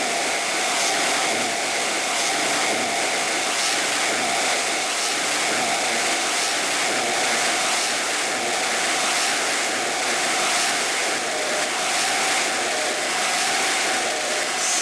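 Noise music: a loud, unbroken wall of hiss with a faint steady tone held underneath.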